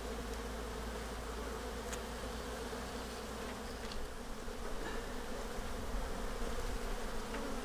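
Honeybees buzzing steadily around an open hive, a dense hum with a few faint clicks, growing slightly louder in the second half.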